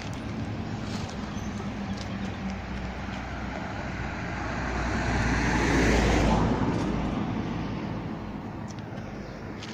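A road vehicle passing by: a low rumble that grows to its loudest about six seconds in and then fades away.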